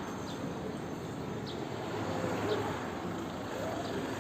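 Short, high, falling bird chirps, about one a second, over a steady background hiss.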